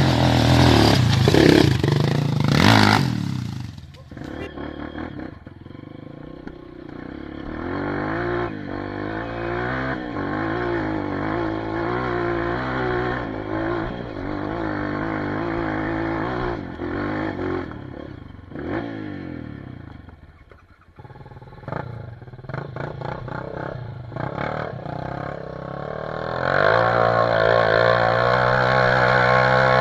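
Dirt bike engines revving up and down under load as they climb a hill. The engine sound dips about twenty seconds in, then runs louder and steadier near the end.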